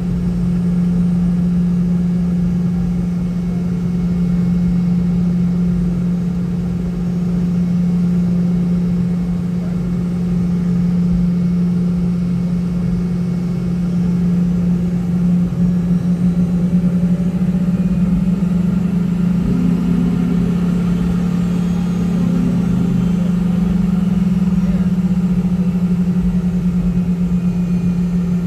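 Boeing 717-200's Rolls-Royce BR715 turbofan engines running at low power, heard inside the cabin as a steady low hum, rising slightly in pitch about two-thirds of the way through.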